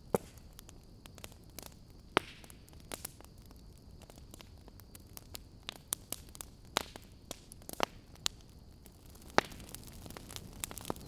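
Wood fire in a fireplace crackling: irregular sharp pops and snaps, a few louder than the rest, over a low steady hiss.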